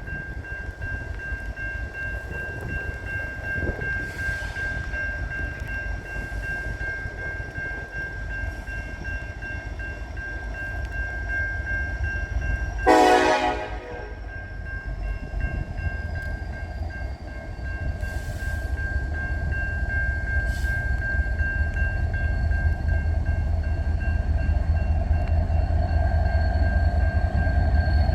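Diesel freight locomotive's air horn sounding one short blast about halfway through, over the steady low rumble of the approaching train, which grows louder toward the end.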